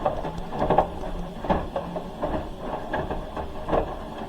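Hoover H-wash 300 Plus front-loading washing machine mid-wash: the drum motor hums in spells while the laundry tumbles with repeated irregular thuds and knocks.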